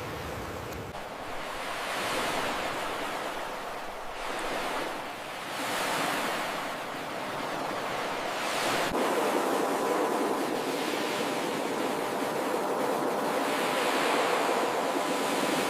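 Ocean surf: waves breaking and washing up the shore in repeated swells every couple of seconds.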